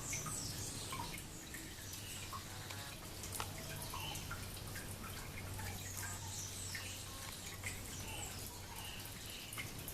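Several wild birds chirping and whistling, short scattered calls of different pitches overlapping, over a steady low hum.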